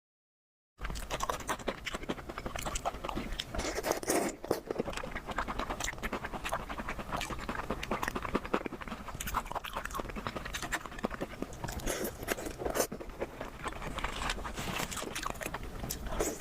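Close-miked mukbang eating: chewing and biting crunchy food, a dense, continuous run of mouth clicks and crunches that starts after a moment of dead silence.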